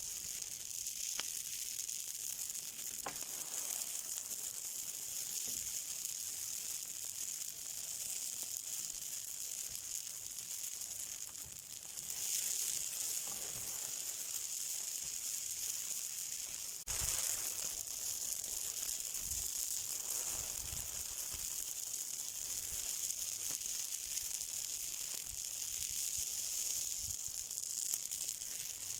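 Something burning with a steady high hiss and sizzle and occasional faint crackles.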